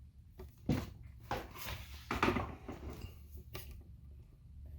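Plastic sheet rustling and crinkling as it is spread out, with a few short handling noises.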